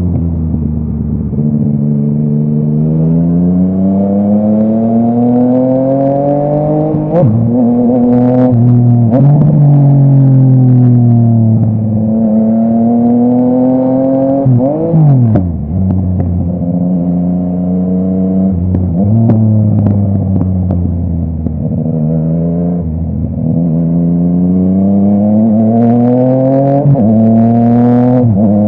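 Yamaha MT-09 inline-three engine through a full Akrapovic exhaust, the motorcycle accelerating and shifting: the pitch climbs, then drops at each gear change, several times over, with a quick dip and climb about halfway through. A few short sharp cracks come through, around a quarter of the way in and near the end.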